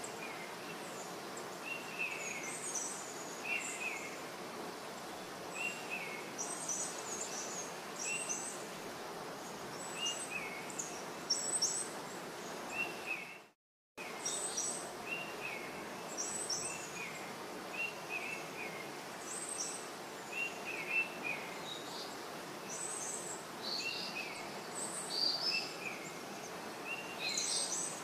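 Small birds chirping, short repeated notes every second or so, over a steady background hiss; the sound cuts out completely for about half a second around the middle.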